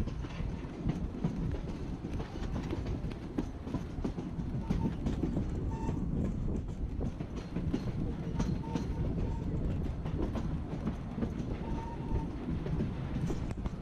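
Narrow-gauge passenger train rolling along, heard from on board the coach: a steady rumble of wheels on rail with frequent clicks over the track. A few brief, faint high squeals come from the wheels.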